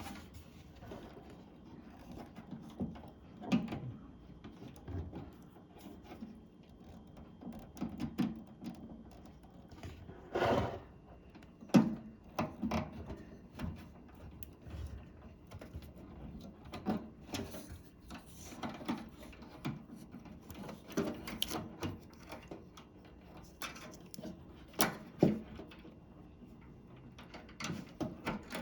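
Irregular small clicks, taps and brief rubbing as wire spade connectors are pushed onto the terminals of a microwave's door switches, with two sharper clicks, one about midway and one near the end.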